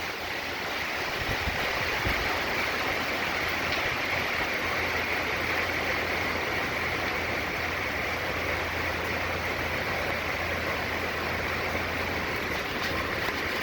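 Hurricane wind and heavy rain, a steady rushing noise with no break.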